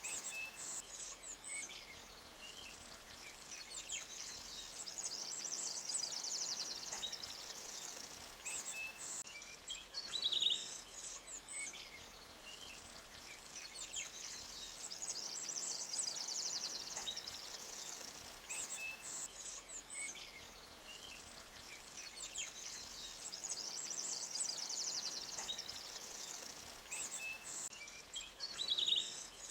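Forest stream ambience: a steady high hiss of water running over rocks that swells and fades, with short bird chirps now and then, the clearest about ten seconds in and near the end.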